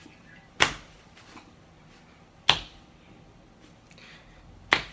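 Three sharp clicks, about two seconds apart, each dying away quickly.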